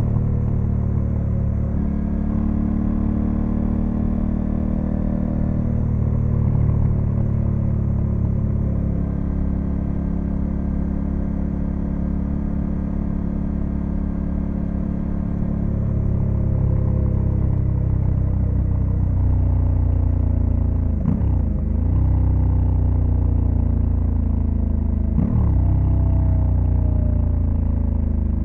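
Honda Africa Twin CRF1100L's parallel-twin engine running on the move with gently changing revs. Twice near the end the engine note dips sharply and picks back up, as at a quick gear change.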